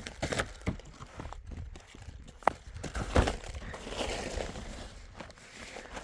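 Irregular knocks, clicks and rustling, with a sharp knock about two and a half seconds in and a heavier thump just after.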